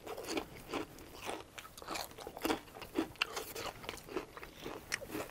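Close-miked chewing of crunchy deep-fried breading: a quick, irregular run of crisp crunches, several a second.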